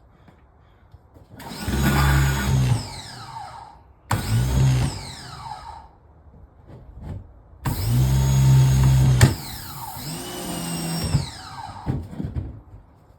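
Electric pressure washer run in three bursts, the motor humming under load and then winding down with a falling whine each time the trigger is let go. Its hose is blasting water into a kitchen sink drain clogged with grease.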